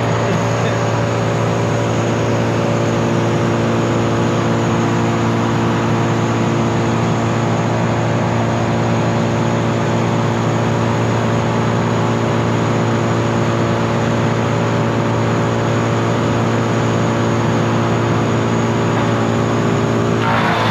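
The engine of tree-removal machinery running at a steady, constant speed: an even, unchanging drone with no revving or load changes.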